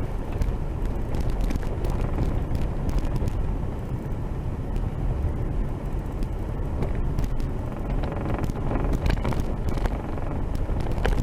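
A vehicle driving on a rough dirt road, heard from inside: a steady low engine and road rumble with scattered knocks and rattles from the bumps.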